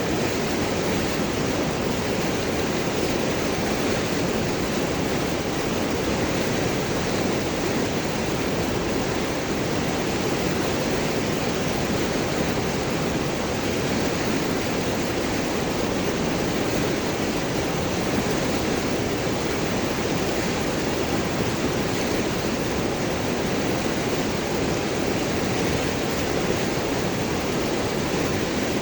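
River water rushing and gurgling over large rocks, a steady, even flow.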